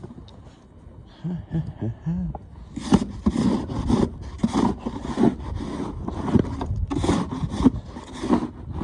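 Snow shovel scraping and pushing snow in quick repeated strokes, about two a second, starting about three seconds in.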